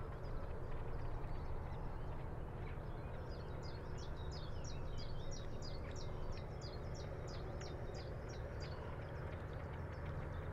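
A songbird calling in a quick run of high, falling chirps, about four a second, for some five seconds from about three seconds in, over a steady low outdoor rumble of breeze and water with a faint distant hum.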